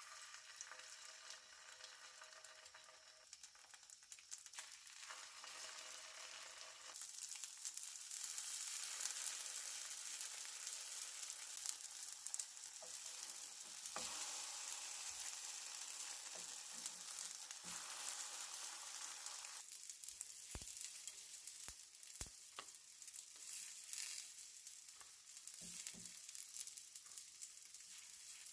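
Food sizzling as it fries in a pan, with scattered clicks and knocks. The sizzle grows louder about a quarter of the way in and eases off a little past the middle.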